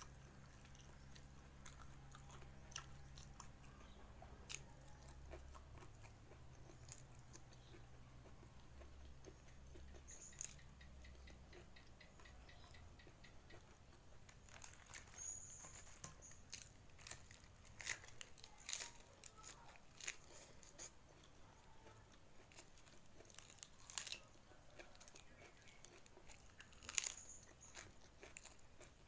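Faint close-up eating sounds: chewing and lip smacks with soft clicks as rice, fried egg and sambal petai are eaten by hand. Near the end comes one louder crunch as a raw cabbage leaf is bitten.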